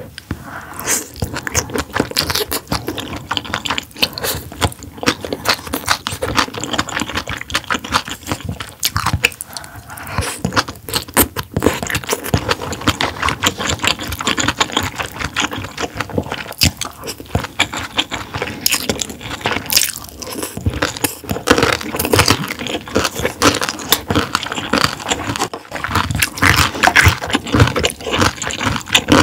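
Close-miked eating sounds: a person chewing and biting food, a dense run of quick wet clicks and crunches that grows louder in the second half.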